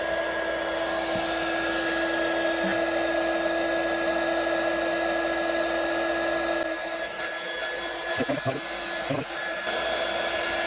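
Electric heat gun running steadily, a blowing hiss with a constant whine, heating the blower's plastic tube to soften it. A few knocks from handling the parts come in the second half.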